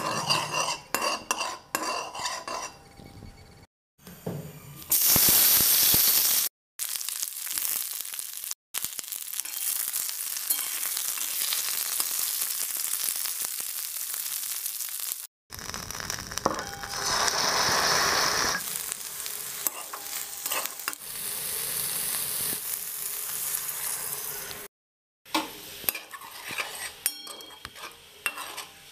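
Food frying in hot mustard oil in a steel pan: black cumin seeds spluttering at first, then flat bean (sheem) pieces sizzling, and later the beans cooking in a poppy and mustard seed paste. A spatula clinks and scrapes against the pan at the start and again near the end, and the sound cuts out briefly several times.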